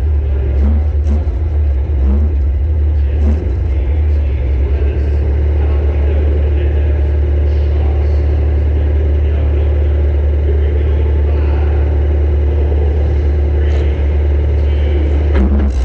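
Compact demolition derby car's engine running with a heavy, steady rumble, heard from inside the car, with a sharper knock near the end.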